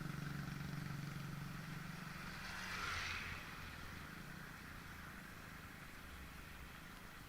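A motor vehicle running, with a steady low hum that fades over the first few seconds, and a short swell of hiss about three seconds in.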